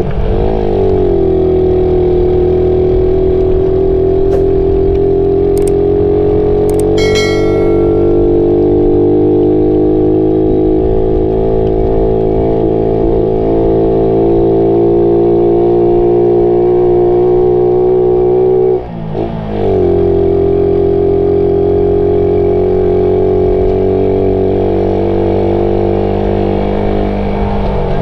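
Suzuki Raider 150's single-cylinder four-stroke engine running at a steady road speed. The note dips and climbs back about a second in and again near 19 s, as happens on a gear change.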